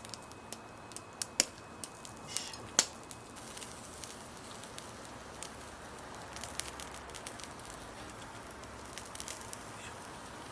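Charcoal fire in a shichirin grill crackling and popping as meat skewers cook over it: scattered sharp pops over a faint steady sizzle, two of them loud in the first three seconds.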